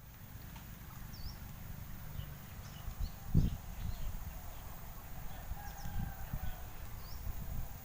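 Outdoor ambience of birds calling, short high chirps repeating throughout, over a steady low rumble, with a single knock about three and a half seconds in.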